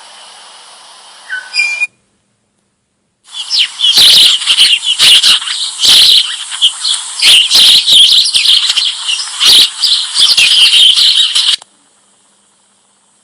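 Many small caged birds chirping and chattering all at once, a dense high twittering with sharp clicks among it. It starts after a short gap of silence and cuts off suddenly near the end.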